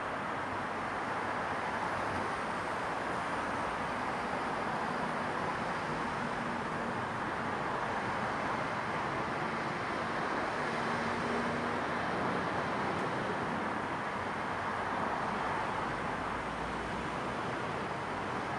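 Steady wash of distant road traffic, an even rushing hum that swells slightly in the middle as a vehicle passes.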